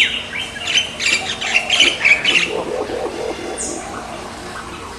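Birds squawking and chirping: a sharp falling squawk right at the start, then a burst of quick high chirps over the next two seconds, and one more high call a little past halfway.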